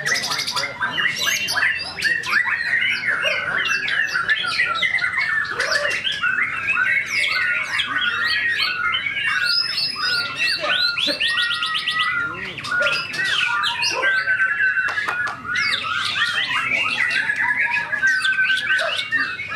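White-rumped shama (murai batu) singing without pause: a fast, varied stream of whistles, trills and harsh notes, packed with mimicked phrases.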